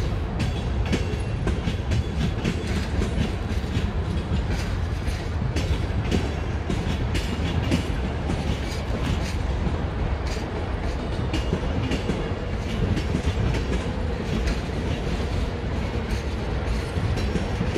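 Rake of passenger coaches rolling along the station tracks during a shunting move: a steady low rumble, with the wheels clicking irregularly over rail joints.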